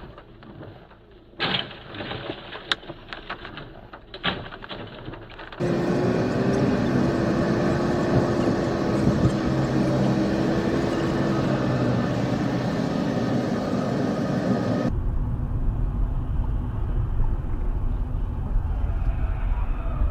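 Vehicle noise in three separate stretches that cut abruptly into one another. First comes a thin noise with several sharp knocks, then a loud steady road-and-engine noise with a steady hum, and near the end a low rumble.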